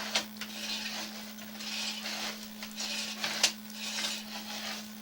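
Irregular scraping and sharp clicks from a sewer camera push rod being handled and fed into the line, over a steady electrical hum.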